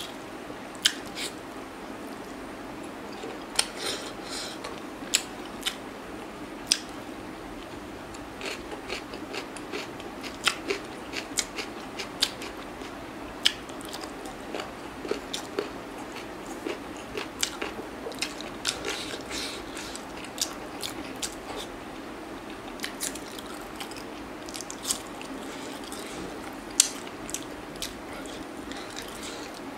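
Close-miked eating sounds of a man eating chicken and rice by hand: chewing with many sharp, irregular mouth clicks.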